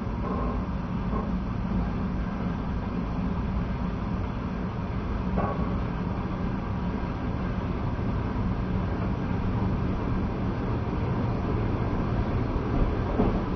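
Passenger train running at speed: a steady rumble of wheels on rails, with a few faint knocks.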